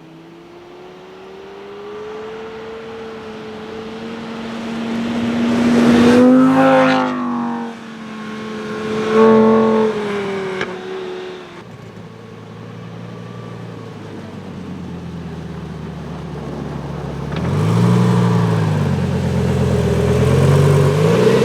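Lamborghini Gallardo's V10 accelerating on a snowy road, its pitch rising for several seconds and loudest about six to ten seconds in as it goes past, then easing off and building up again near the end.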